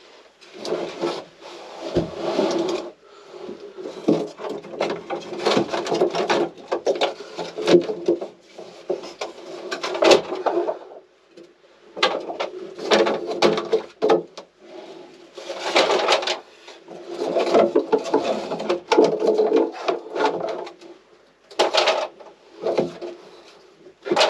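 Wooden interior fittings of a small sailboat's cabin being pried, scraped and pulled out: stretches of scraping and rubbing a few seconds long, broken by short pauses and sharp knocks.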